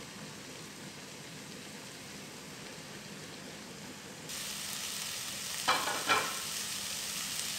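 Eggplant in chili paste simmering in a nonstick frying pan without oil, a steady sizzling hiss. About four seconds in the sizzle steps up louder as the water cooks off and the sauce starts to dry, with two short clicks a little later.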